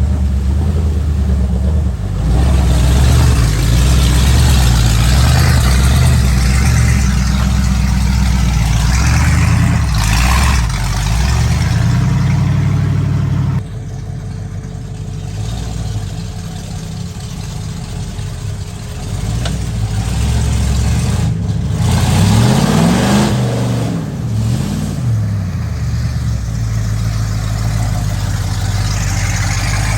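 Mud truck engines running loud and revving hard. Partway through the sound cuts abruptly to a quieter engine, and later the revs rise and fall a few times.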